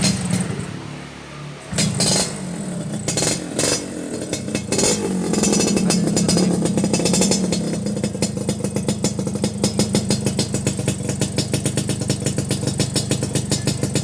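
Yamaha RX-King two-stroke single-cylinder engine running through an aftermarket racing exhaust. It is revved in several short blips in the first few seconds, then runs steadily with an even, rapid pulsing beat.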